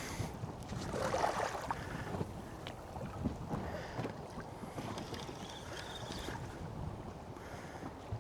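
Water slapping against the hull of a small boat at anchor, with wind on the microphone and a few light knocks.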